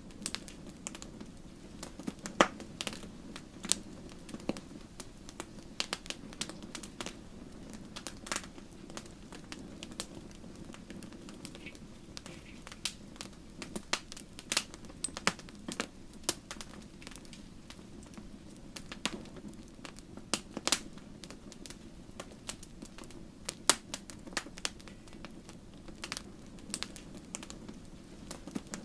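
Wood fire in a fireplace crackling: irregular sharp pops and snaps from the burning logs, several a second at times, over a steady low hum.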